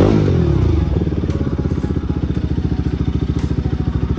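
Bajaj Pulsar NS200's single-cylinder engine falling back from a rev and then idling steadily with an even pulse.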